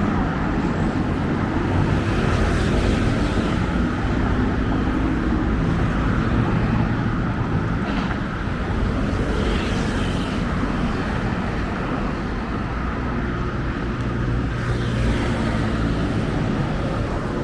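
Steady road traffic: vehicle engines running close by with a continuous low rumble, no single event standing out.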